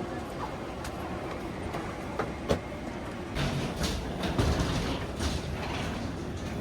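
Airliner cabin noise after landing: a steady low rumble with a few sharp clicks, then from about halfway a run of rustling and knocks.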